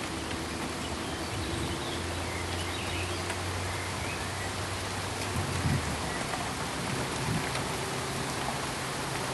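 Pink noise: a steady, even hiss like rain, with a faint low hum underneath and a brief low swell a little past halfway.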